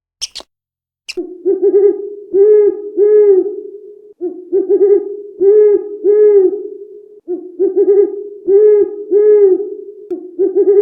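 A bird's low hooting calls, repeated in four phrases of about three seconds each, every phrase a run of several arched hoots over a steady low tone.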